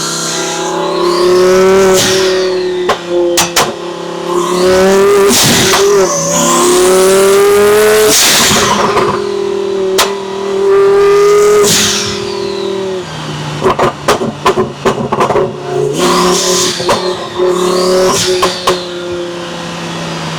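Twin-turbo Lamborghini Huracan V10 accelerating hard, its revs climbing and dropping again and again as it shifts, with a high whistle rising and falling above the engine. About two-thirds of the way in there is a run of sharp pops and crackles.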